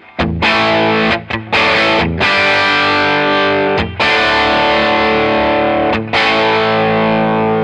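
Electric guitar (Eastman SB59/v) through the blues channel of a Mesa Boogie Express 5:50+ amp, playing overdriven chords that ring out, with a few short breaks between them.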